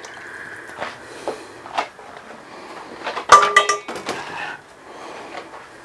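Metal kitchenware knocking against a cooking pot: a few light knocks, then a sharp clang about three seconds in that rings briefly.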